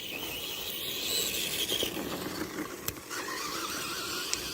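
Tamiya TXT-2 RC monster truck's twin electric motors and gearbox whining as it drives: a higher whine for the first couple of seconds, then a lower one from about three seconds in.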